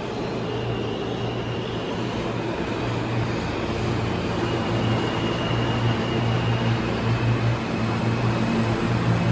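New York City subway train running in the station, a steady rumble with a low hum that slowly grows louder.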